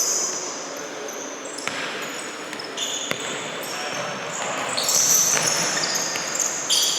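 Futsal play on an indoor court: shoes squeaking on the floor again and again in short high-pitched chirps, with a few sharp thuds of the ball being kicked and faint shouts, in a reverberant hall.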